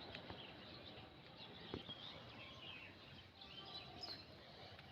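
Faint outdoor ambience with small birds chirping now and then in the background, and a couple of soft clicks.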